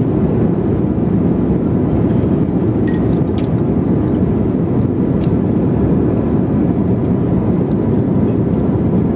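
Steady cabin noise of a jet airliner in flight, with a few faint clinks about three and five seconds in.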